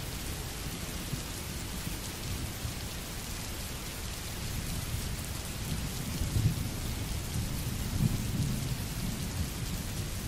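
Steady, heavy rain falling on a wet path, with a low rumble of thunder swelling in the second half.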